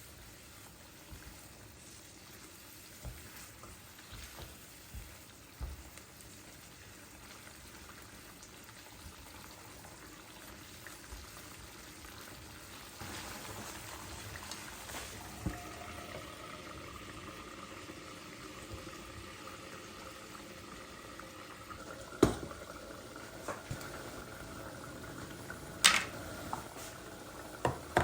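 Liquid bubbling in a cooking pot, growing fuller about halfway through, with a few sharp clinks of kitchenware near the end.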